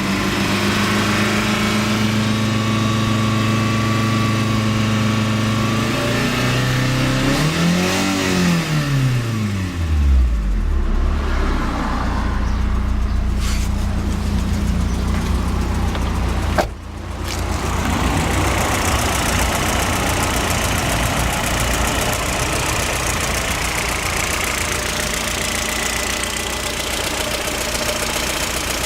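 Car engine running with a knock that is put down to its Brisk Silver spark plugs. It is revved once, rising and falling in pitch about a third of the way in, then settles back to a steady run.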